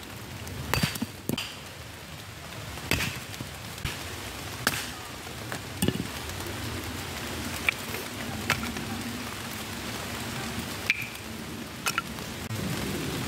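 Steady rain falling on the woodland floor, with a series of sharp, irregular knocks as small wooden blocks are split into kindling with a hatchet.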